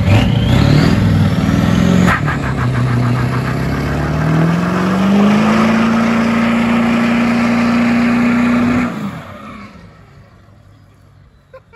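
Diesel pickup truck engine revved hard and held at high revs for several seconds, with a rising whistle in the first second, then dropping off suddenly about nine seconds in.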